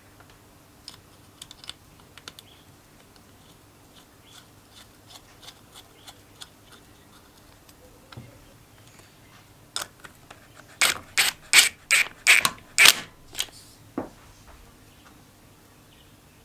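Scattered light clicks and taps of hand tools and metal parts being handled, then a quick run of about seven loud, sharp clicks or knocks near the end.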